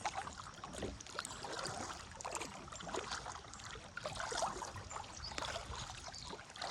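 Kayak paddle dipping into the river, with water splashing and trickling off the blades in short, irregular splashes.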